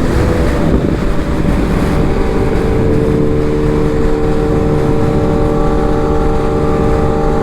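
Sport-bike engine running at steady revs while riding, with a steady rushing noise; its pitch holds even after about two seconds.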